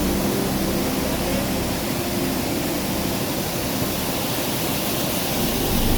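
Waterfall in high flow after rain: a steady rushing of water, with a low hum at the start that returns near the end.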